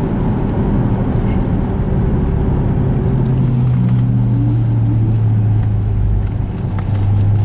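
Ford Shelby GT500's V8 heard from inside the cabin while driving, a loud continuous drone that holds one steady pitch from a few seconds in.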